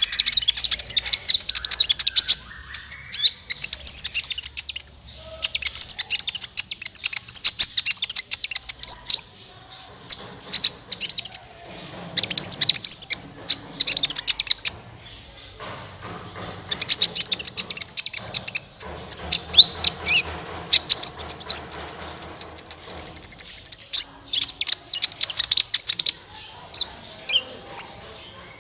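Kolibri ninja (Van Hasselt's sunbird) singing a lure song: bursts of sharp, high chirps and fast twittering trills with short pauses between them.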